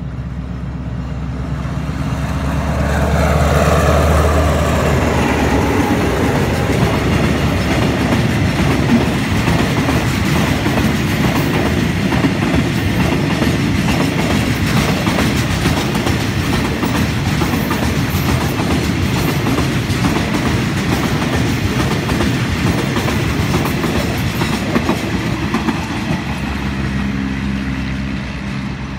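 Diesel-hauled freight train of tank wagons passing close: the locomotive's engine rumble peaks with a falling whine about three to five seconds in, then a long run of rhythmic clickety-clack from the wagons' wheels over the rail joints.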